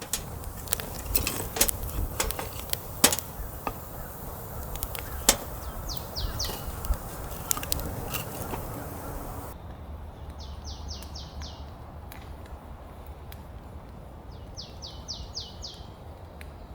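Irregular sharp clicks and knocks for the first half, then a bird repeating a short phrase of four or five quick falling notes, twice.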